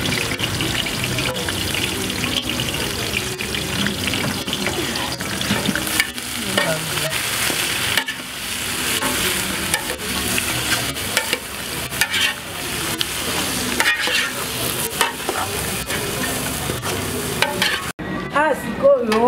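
Chopped onions, peppers and tomatoes sizzling as they fry in hot oil in an aluminium pot, stirred with a metal ladle that clicks against the pot. The sizzling breaks off near the end.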